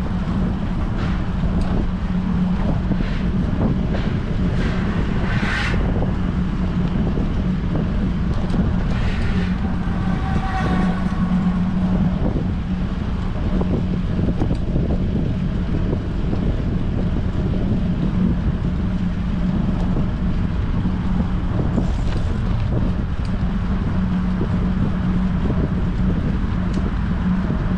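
Strong wind buffeting an action camera's microphone while cycling, a steady low rumble with a constant hum underneath. A couple of faint, brief higher-pitched sounds come through about five and ten seconds in.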